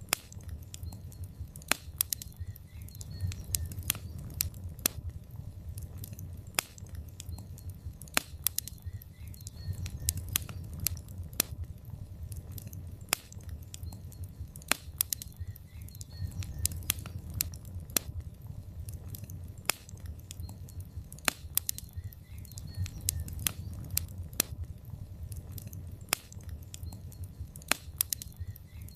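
Wood fire of burning logs crackling: irregular sharp pops and snaps, several a second at times, over a steady low rumble of the flames.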